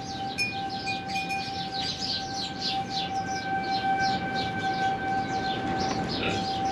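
Outdoor tornado warning siren holding one steady tone, with small birds chirping busily over it.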